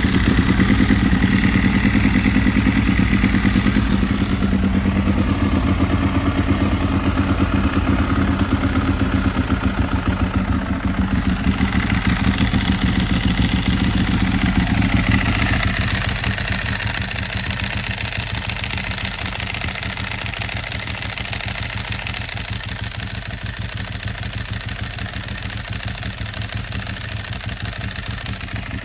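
Ducati 1098's L-twin engine idling just after starting, running at a higher, louder idle that settles to a lower, quieter idle about halfway through.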